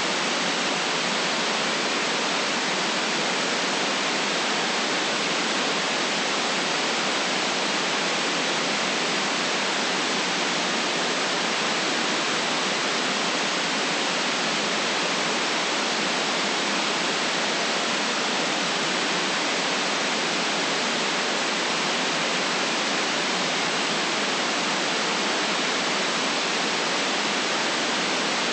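Steady white noise: an even, unchanging hiss with no deep rumble, running without pause or change.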